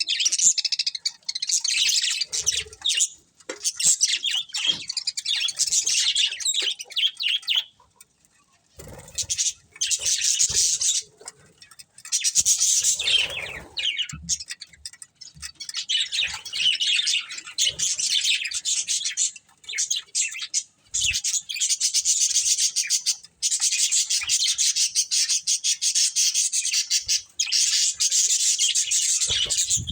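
Budgerigars chirping and warbling in rapid, continuous chatter, with a short pause about eight seconds in.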